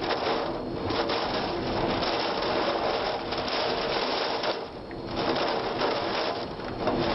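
Heavy storm rain, perhaps with hail, drumming in a dense, steady rattle on the tornado footage's soundtrack, with a brief dip about five seconds in.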